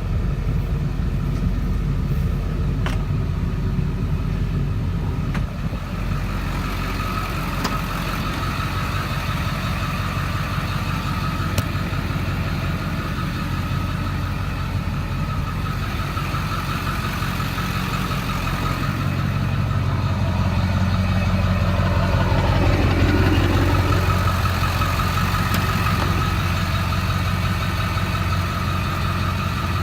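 The 7.3L V8 turbo-diesel of a 2002 Ford F-350 running steadily around idle, swelling a little louder for a few seconds about two-thirds of the way through.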